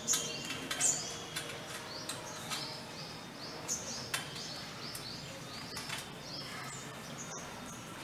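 Small bird calling: a rapid run of high, thin chirps, each sliding down in pitch, several a second at first and thinning out in the second half, over a faint hiss.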